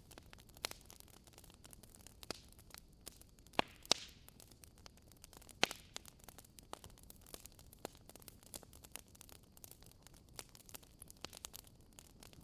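Wood fire burning in a fireplace: irregular sharp crackles and pops over a soft steady hiss, with the loudest pops about four seconds in and again just before six seconds.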